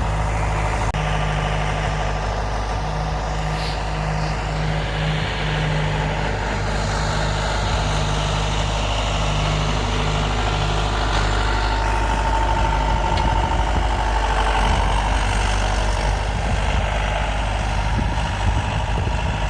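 John Deere 6410 tractor's four-cylinder turbo diesel running steadily under way, heard from inside the closed cab.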